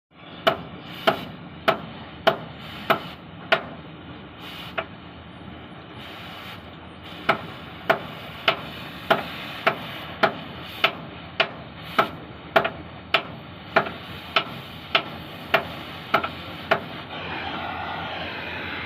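Hammer striking metal in steady blows, a little under two a second, each with a short ring. There is a pause of a couple of seconds partway through, and the blows stop near the end, leaving a steady rushing noise. The hammering is the work of cutting out a worn pin bushing sleeve on a Case 580 backhoe.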